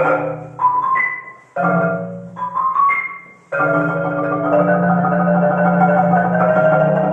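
Marimba playing rolled chords, the mallets trembling rapidly on the low bars, broken off twice by short pauses and then held on. Short rising slides sound in between, about a second and three seconds in.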